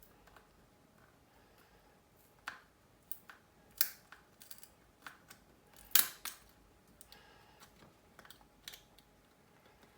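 Small repair tools clicking and tapping against the opened Samsung Galaxy Note 3's frame and internal parts as cables are unplugged. A string of sharp, irregular clicks, the loudest about six seconds in.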